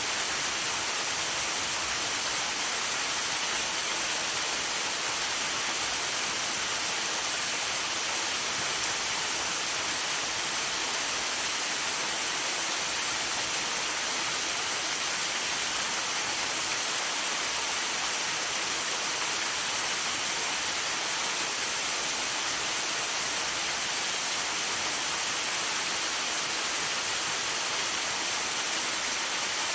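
Waterfall rushing steadily, an unbroken hiss that is strongest in the high end.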